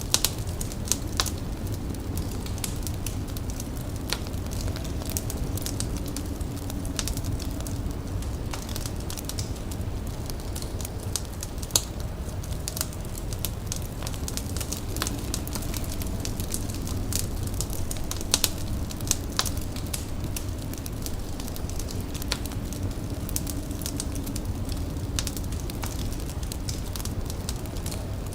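Wood fire crackling, with irregular sharp pops and snaps over a steady low rumble. A faint low hum fades in and out.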